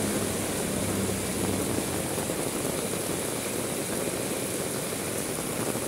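Heavy rain falling steadily, with a low engine hum from a motor vehicle that fades away about two seconds in.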